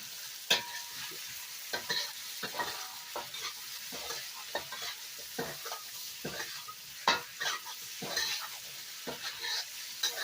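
Onion frying in a hot wok with black bean sauce: a steady sizzle broken by irregular scrapes and clacks as it is stirred against the wok, two of them louder than the rest.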